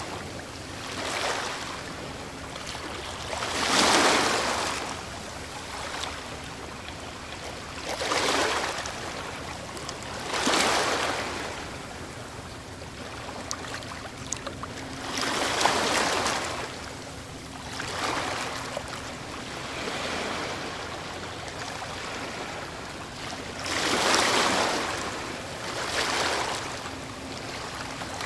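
Ocean waves breaking on a shore: a steady wash of surf with a louder surge every few seconds as each wave breaks.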